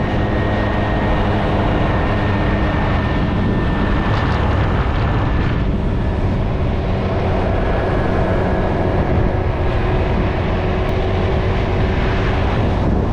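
Motorcycle engine running steadily while riding, with strong wind rushing over the microphone.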